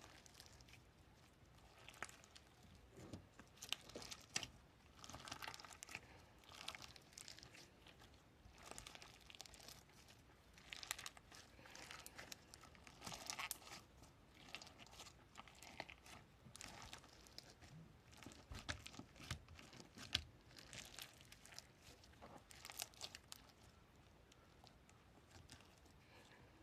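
Quiet crinkling and crackling of a handled material in irregular short bursts, typical of ASMR trigger sounds.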